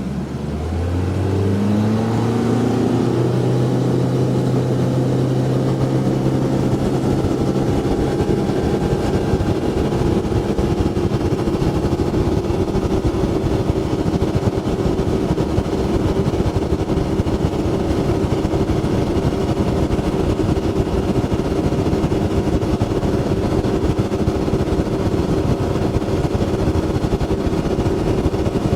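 Boat motor speeding up, its pitch rising over the first two or three seconds, then running steadily at speed.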